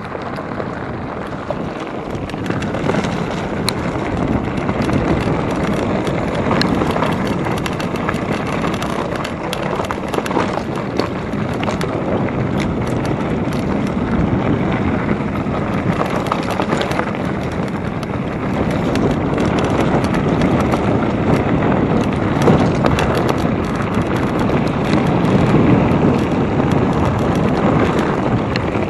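Mountain bike riding downhill over rough ground: a steady rush of wind over the microphone, tyre noise and a constant patter of small rattles and knocks from the bike.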